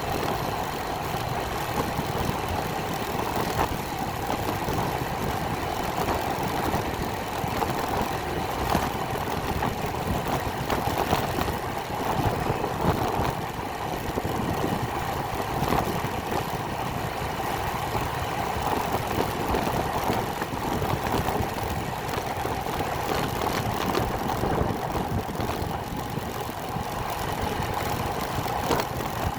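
Motorcycle engine running steadily through a ride.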